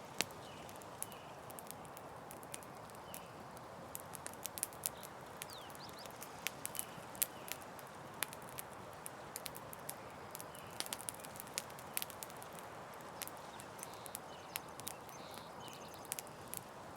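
Campfire burning: irregular sharp pops and snaps of the wood over a steady soft hiss.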